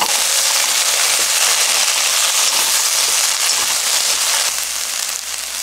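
Garlic scapes and small dried anchovies frying in hot oil in a wok, with a steady sizzle and crackle as two wooden spoons toss them.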